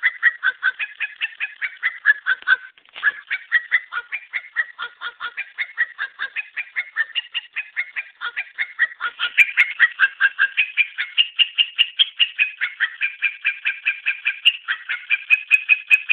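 A dog 'singing': a fast string of short, high yelping barks, about five a second, stepping up and down in pitch like a tune, with one brief break about three seconds in.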